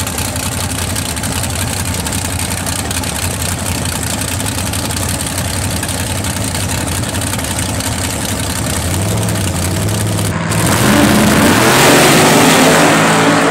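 Two 1968 and 1969 Camaro drag cars idling at the starting line with a steady, pulsing engine note. About nine seconds in the engines rev up, and after a brief break they run at full throttle, climbing in pitch as they launch down the track.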